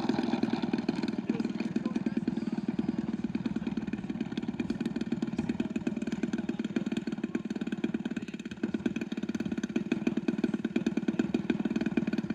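A small engine running steadily at idle with a fast, even pulse, dipping slightly in level about two-thirds of the way through.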